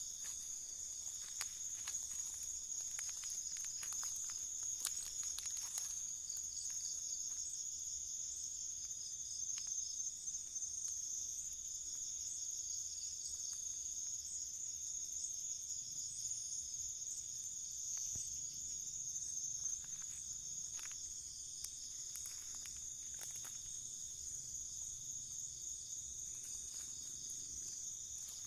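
Steady high-pitched chorus of night insects trilling without a break, with scattered faint clicks and rustles.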